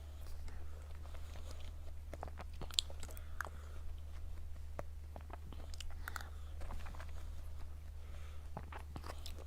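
Close-miked mouth sounds of a person biting and chewing cake: scattered wet clicks and smacks, over a steady low electrical hum.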